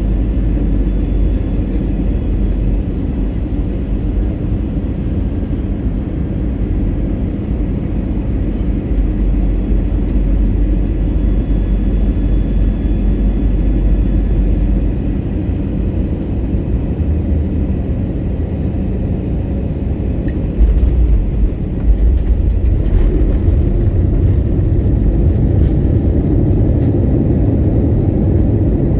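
Airliner cabin noise on landing: a steady low rumble of engines and airflow, then about two-thirds of the way in a few sudden heavy thumps as the main wheels touch down, followed by a louder, fuller rumble as the plane rolls out on the runway.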